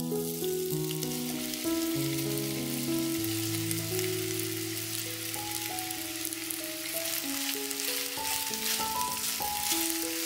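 Zucchini sticks, coated in flour and spices, sizzling as they fry in oil in a nonstick frying pan while being stirred. Background music with held notes plays alongside.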